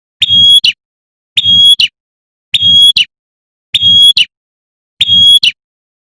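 Female prinia (prenjak) giving its 'tembakan' call, the call a female uses to summon a male. Five identical short calls, evenly spaced about once every 1.2 seconds, each a clear high note ending in a brief buzz.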